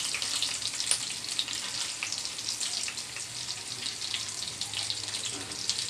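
Marinated chicken pieces frying in oil in a pan: a steady sizzle with light crackling.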